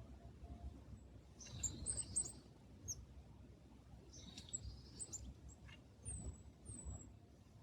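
Small songbirds calling at a feeder: a harsh, buzzy call about a second and a half in and another a little after four seconds, with thin high notes between them and two short falling whistles near the end.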